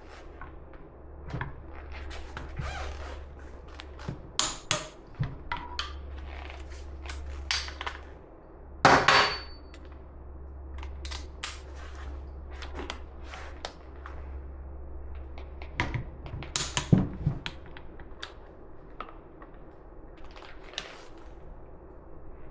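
Metal tools and parts clinking and knocking as they are handled, with a loud strike about nine seconds in that rings briefly and a few sharper knocks near seventeen seconds, over a steady low hum.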